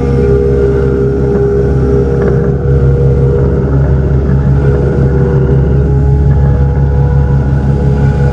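Tractor engine running steadily with a loud, even hum.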